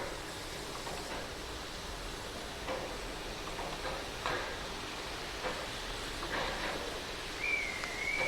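Steady outdoor background noise with scattered faint knocks, and a short wavering high whistled note near the end.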